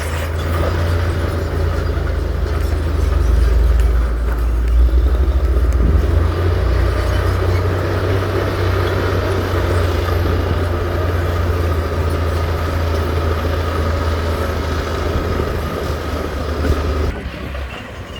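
Heavy diesel engine of earthmoving machinery running with a steady low drone, growing louder for a few seconds early on and dropping away briefly near the end.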